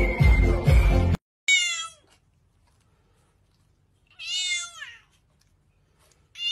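Dance music with a heavy beat cuts off about a second in, followed by two meows from a house cat about three seconds apart, the first falling in pitch.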